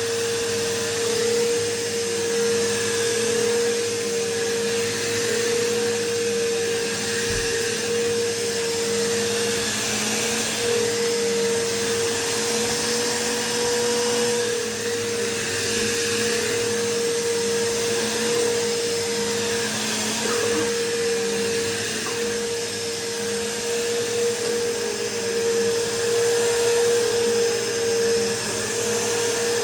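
Bissell PowerForce bagless upright vacuum cleaner running continuously with a steady motor whine over a rushing hiss of air, its level rising and dipping slightly as it is pushed over carpet.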